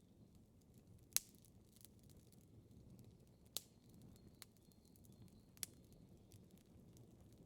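Campfire burning softly with a low rumble and sparse sharp crackles and pops from the burning logs, three louder pops about one, three and a half and five and a half seconds in.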